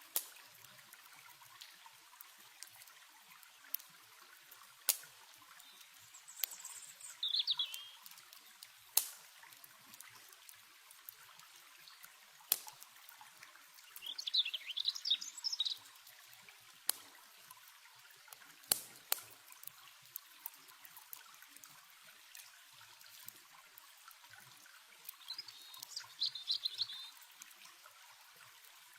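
Steady rush of a stream or river with scattered sharp pops and crackles from a campfire. Three short bursts of quick, high warbling birdsong come in about a quarter, half and nine-tenths of the way through.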